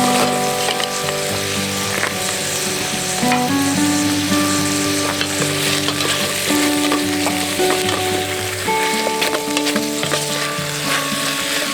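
Steady crackling and sizzling with scattered sharp pops, under background music of slow held notes.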